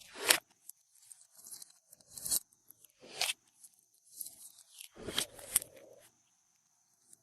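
Glossy slime being mixed by hand, sticky crackles and pops coming in short bursts about a second apart, with a short pause near the end.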